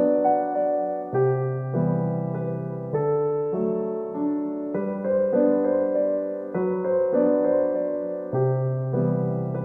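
Background piano music: soft chords played slowly, changing about every second or two.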